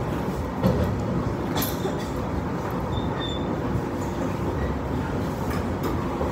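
Train running noise heard from inside the carriage: a steady rumble from wheels and rails, with a few sharp clacks as the wheels cross rail joints and points. The loudest clack comes a little under a second in.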